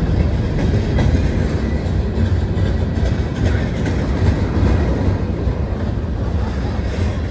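Norfolk Southern freight cars rolling past: a steady rumble of steel wheels on the rails, with some clicking and clatter from the wheels.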